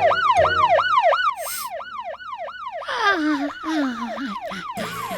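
Cartoon siren sound effect, wailing rapidly up and down about three times a second. About three seconds in, a separate tone slides steadily downward beneath it.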